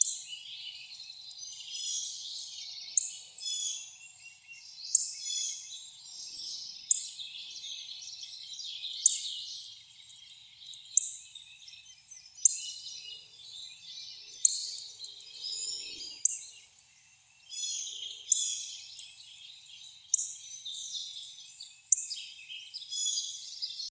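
Wild songbirds chirping and calling in a dense, busy chorus, with one sharp, loud call note repeating about every two seconds.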